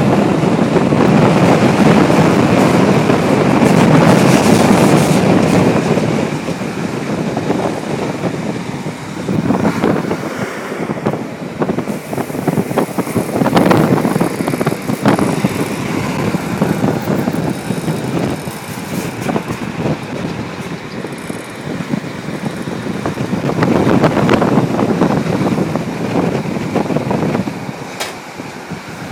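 Passenger train running at speed, heard from on board: a steady rumble of wheels and rushing air. It is loudest for the first six seconds and swells again about 24 seconds in.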